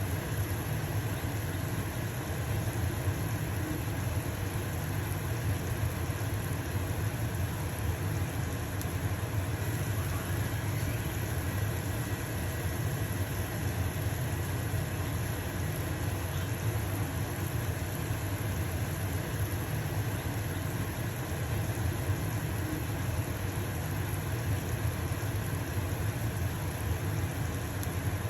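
Stove-top exhaust fan running steadily with a low hum, over the even hiss of a pancake sizzling in a frying pan.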